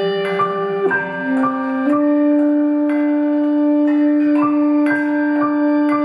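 Live ensemble music: a long held low note that steps down once and then holds steady, under a higher line of short, repeated notes.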